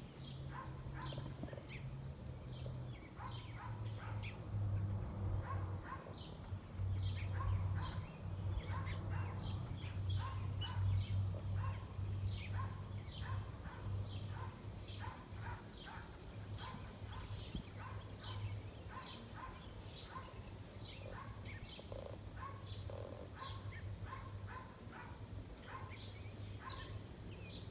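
Small birds chirping repeatedly, short chirps about twice a second, over a steady low hum.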